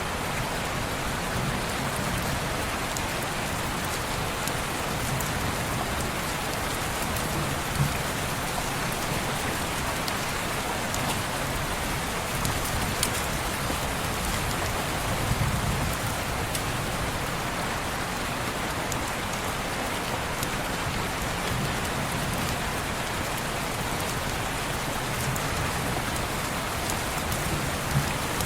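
Steady rain pattering on a window, with a few sharp ticks here and there and a soft low rumble about halfway through.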